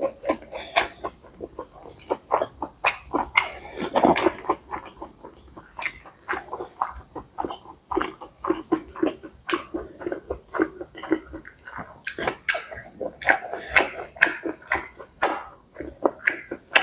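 A person eating pad see ew (stir-fried wide rice noodles with pork) close to the microphone: continuous, irregular wet chewing with many sharp clicks.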